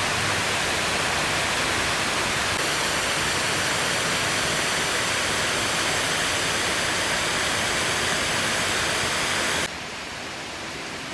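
Water falling steadily down the artificial waterfalls of the Mirage volcano, an even rushing noise. It cuts off abruptly near the end, replaced by quieter ambience with faint music.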